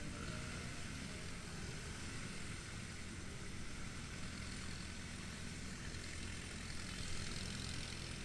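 Motorcycle engine running steadily, with a constant hiss of wind and road noise over it.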